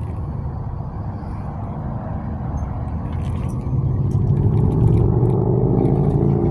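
Air ambulance helicopter's rotor and engine rumbling, growing steadily louder with a pulsing beat in the second half.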